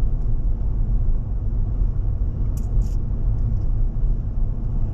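Car driving at road speed: a steady low rumble of engine and road noise, with two brief clicks about two and a half seconds in.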